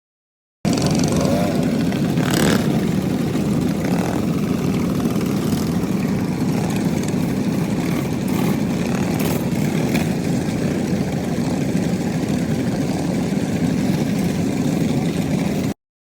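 Mini bike's small engine running steadily during a ride. It starts abruptly about half a second in and cuts off suddenly near the end.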